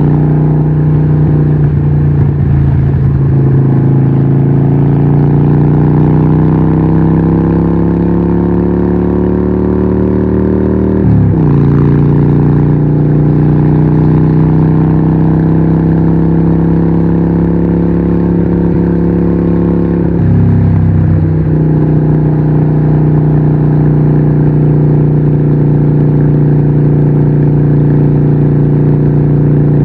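Harley-Davidson 1200 Nightster's 1200cc Evolution V-twin running through a Vance & Hines exhaust, pulling under load with a slowly rising note. The note breaks briefly and picks up again about eleven seconds in and about twenty seconds in.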